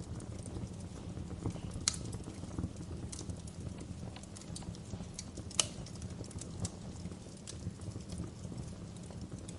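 Wood fire crackling in a fireplace: a steady low rumble of the flames under irregular snaps and ticks, with two sharper pops about two seconds in and just past the middle.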